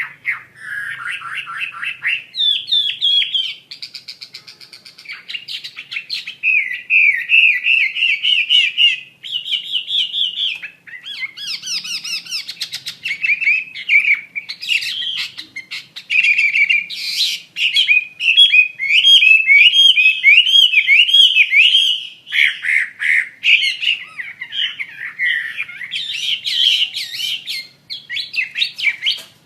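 Chinese hwamei singing continuously: a long, varied song of loud whistled phrases, many of them quick runs of repeated notes, in full song.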